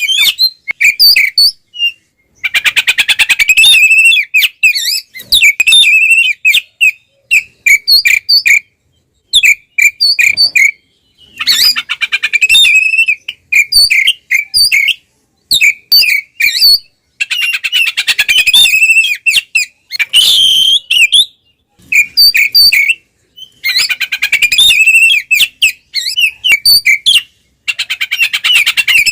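Oriental magpie-robin (kacer) in loud, full combative song. It sings in bursts of one to three seconds separated by short pauses, each burst mixing rapid harsh rattles with sharp whistled notes.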